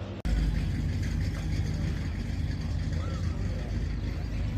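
A car engine running at idle: a steady low rumble, starting abruptly about a quarter-second in, with people talking faintly in the background.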